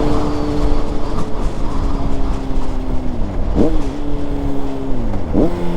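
2006 Honda CBR600RR inline-four through a Yoshimura exhaust, its note sinking as the bike slows. Then come two downshifts, about three and a half and five and a half seconds in, each with a quick throttle blip that rises sharply in pitch, over a steady rush of wind noise.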